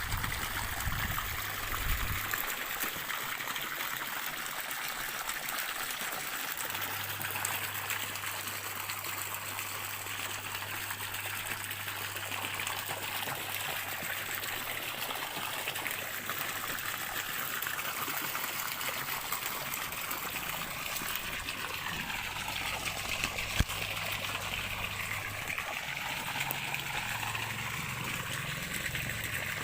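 Stream water trickling and flowing steadily, with a single short click about two-thirds of the way through.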